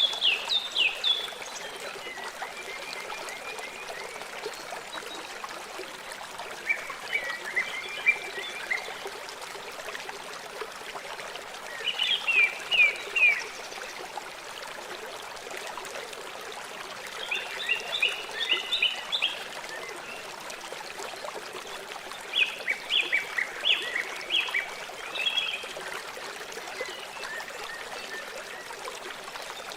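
River water flowing steadily, with a bird repeating short phrases of quick, downward-sliding chirps every five seconds or so.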